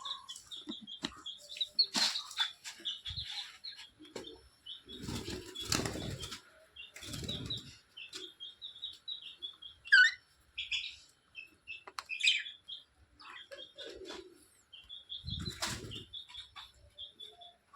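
Birds flapping their wings in several bursts in an aviary, over steady short high chirping from small cage birds such as budgerigars.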